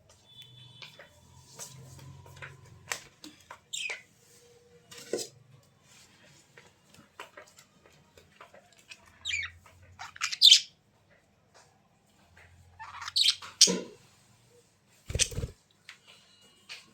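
A pet bird giving a few short, sharp squawks and chirps that sweep in pitch, mixed with light clicks and knocks, and a dull thump near the end.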